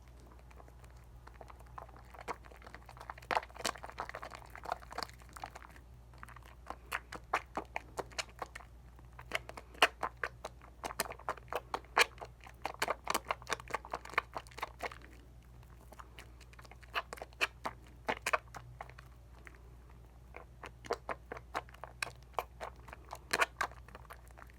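Hands working a bar of Dial coconut soap into lather: wet, crackling squishes and clicks of foam and bubbles, coming in clusters with short pauses, with stretches of slippery rubbing in between.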